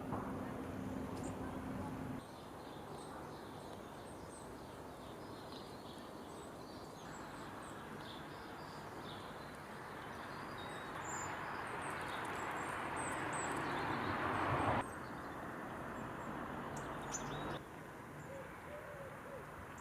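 Tits calling in short, high chirps: long-tailed tits, then a great tit, over a steady outdoor noise haze. The background level changes abruptly several times.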